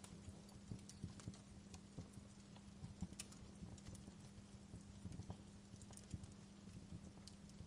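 Wood fire in a fireplace crackling quietly: irregular sharp pops and snaps, several a second, over a steady low rumble of the burning fire.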